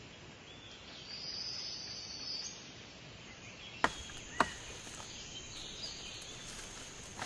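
Outdoor ambience with birds calling and a brief high buzzing from about one to two and a half seconds in. A little past halfway there are two sharp clicks about half a second apart.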